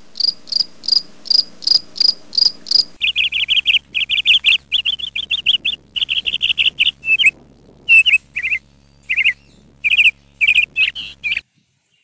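Caged small birds chirping: a high, regular chirp about twice a second at first, then louder, rapid trilled chirps in broken runs that stop abruptly near the end.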